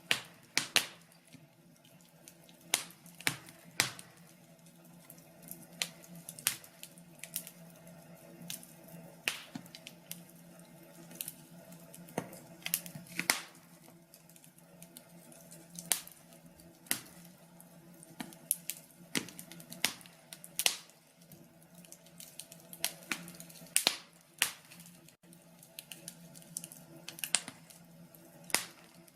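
Wood fire crackling, with irregular sharp pops of varying loudness over a faint steady low hum.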